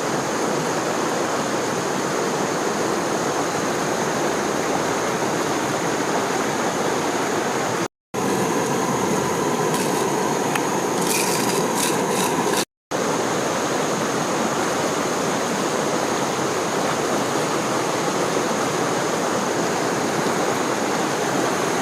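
Steady rushing water of a stream below a waterfall. The sound cuts out twice briefly, about eight and thirteen seconds in. Between the cuts there are a few sharp clicks over the water.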